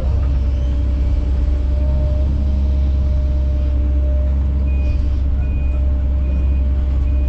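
Kobelco SK210 excavator's diesel engine running steadily with a low drone. About two-thirds of the way in, a backup alarm starts beeping, four short beeps a little under a second apart.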